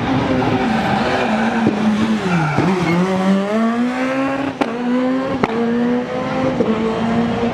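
Rally car engine at high revs. The pitch drops sharply as the driver lifts off about two and a half seconds in, then climbs again under acceleration. Two sharp cracks come midway.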